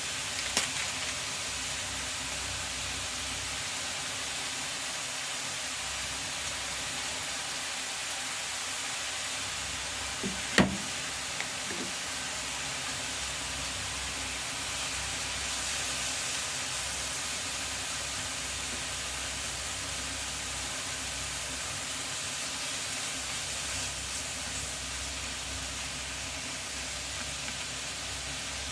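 Maitake mushrooms sizzling steadily in butter in a frying pan, with a few sharp utensil knocks, the loudest about a third of the way through.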